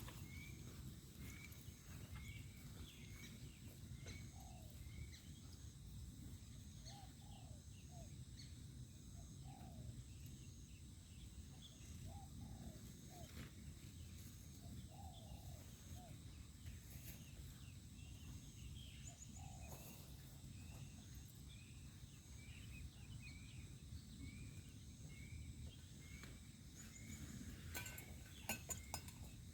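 Faint night-time outdoor ambience: a steady high insect drone, with a short chirp repeating about once a second and scattered lower animal calls. There are a few sharp clicks near the end.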